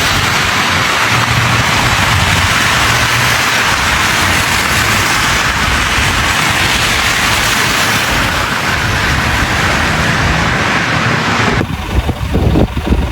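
Loud, steady rushing noise, then an abrupt change about eleven and a half seconds in to gusty wind buffeting the microphone.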